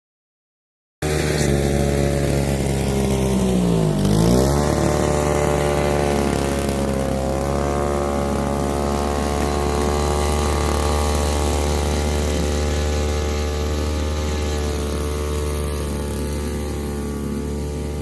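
Poulan Pro PBV 200 LE leaf blower's small two-stroke engine running. Its pitch dips sharply and comes straight back about four seconds in, then holds steady.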